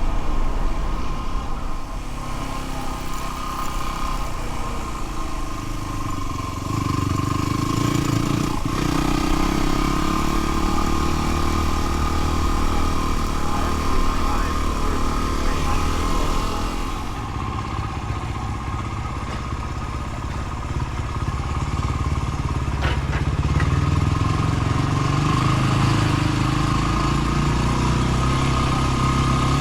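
Dirt bike engine running under way, its revs rising and falling several times.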